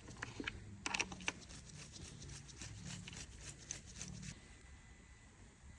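Light clicks and taps of metal tools and engine parts being handled during reassembly, a quick cluster about a second in and scattered ones until near the end.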